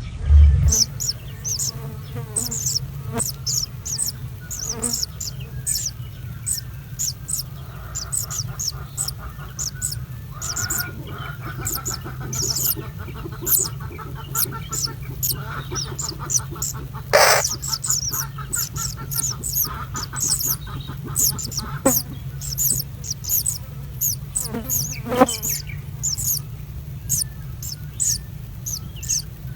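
Small birds chirping over and over in short, high calls, a few each second, over a steady low hum.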